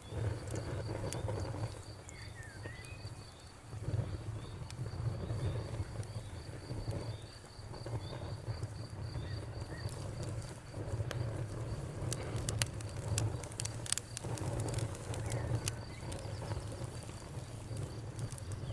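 Crickets chirping in a steady fast pulse over a crackling fire, with sharp pops clustered about two-thirds through and a low rumble that swells and fades. A few short bird chirps near the start.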